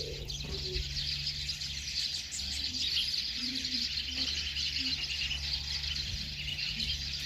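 Many small birds chirping and twittering continuously in high, rapid calls, over a low steady hum.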